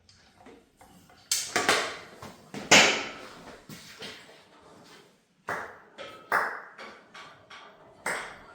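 Metal engine parts being handled and set down: a string of sharp metallic clinks and clanks, about six in all, the loudest about three seconds in. Several of them leave a short ring.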